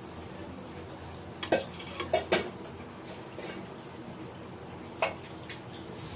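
Kitchen utensils and dishes clinking a few times, with short sharp knocks while ingredients are measured into the dough for roti.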